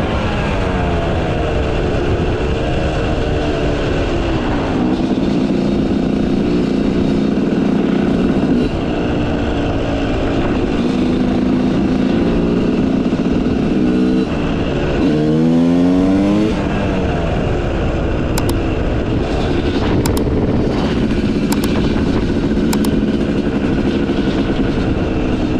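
Yamaha YZ250 two-stroke motocross engine with a Pro Circuit exhaust, under way: engine pitch holds steady for stretches and rises and falls as the throttle opens and closes. About fifteen seconds in it revs up sharply, then drops back.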